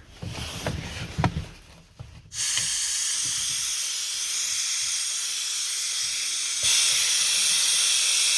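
A few light knocks, then about two seconds in a steady hiss of air escaping from the TU6A diesel locomotive's cooling system as water pushes the trapped air out; the hiss grows louder near the end.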